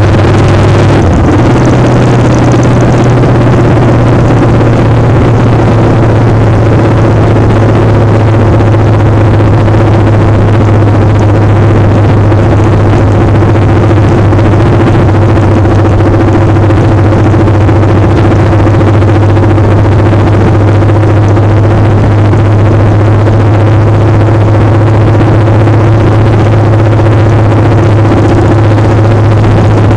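Motorcycle engine running loud and steady at an even speed, dipping slightly in pitch about a second in.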